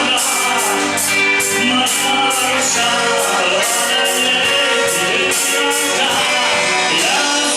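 Live band music: a vocal-instrumental ensemble playing with drums keeping a steady beat and singing over it.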